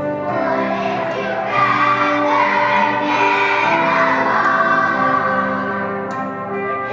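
A children's choir singing a song over recorded instrumental backing music.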